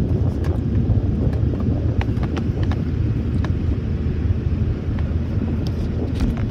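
Automatic car wash machinery working around the car, heard from inside the cabin: a steady low rumble with scattered sharp ticks.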